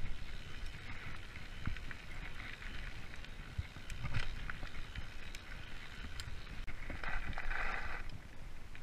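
Freeride mountain bike rolling along a dirt forest trail: a steady low rumble from the tyres and frame, with scattered clicks and knocks from the bike rattling over bumps. About seven seconds in there is a brief, noisier rasping stretch.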